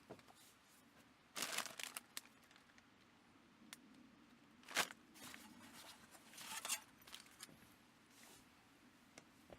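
Intermittent rustling and handling noises: a few short, scratchy tearing or crinkling rustles, with the loudest bursts about a second and a half in, just before five seconds, and near seven seconds.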